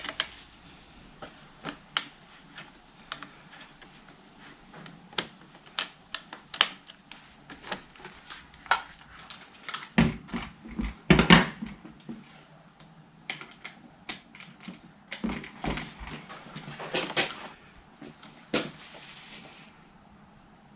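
Scattered clicks, clinks and knocks of hand tools, an Allen key and a spanner, working the bolts of motorcycle hand guards. There is a louder bout of clattering knocks about ten to eleven seconds in, and another near seventeen seconds.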